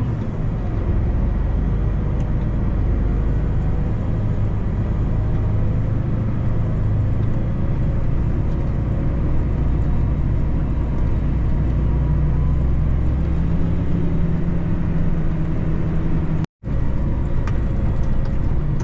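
Farm tractor's diesel engine running steadily while moving cotton bales, its pitch rising slightly in the second half. The sound cuts out for an instant about three-quarters of the way through.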